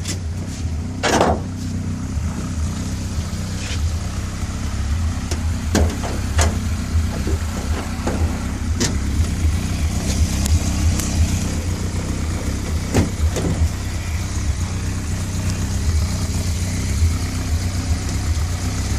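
Ford Pinto 2.0-litre four-cylinder engine idling steadily through its 4-into-1 race exhaust manifold, with scattered clicks and knocks as the aluminium hood is handled and fixed back on.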